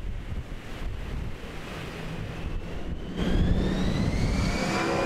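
Wind rumbling on the microphone, then about three seconds in an engine grows louder with a whine that slowly rises in pitch.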